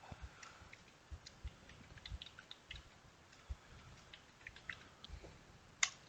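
Faint, irregular keystrokes on a computer keyboard as a password is typed, with one sharper click near the end.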